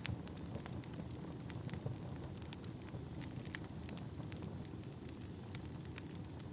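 Wood fire crackling, with irregular sharp pops and snaps over a low steady rumble of flame. A faint high whistle slowly drops in pitch through most of it. The sharpest snap comes right at the start.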